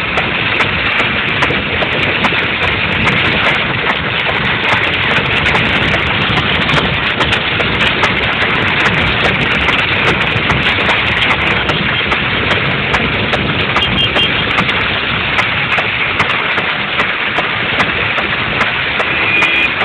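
Steady rain pattering on a moving car, heard from inside the car, over tyre and road noise, in thin mobile-phone-quality audio.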